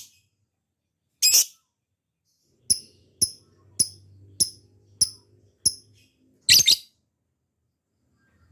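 Lovebird calling in sharp, high chirps: one call, then a run of seven short chirps about every 0.6 seconds, then a longer call near the end.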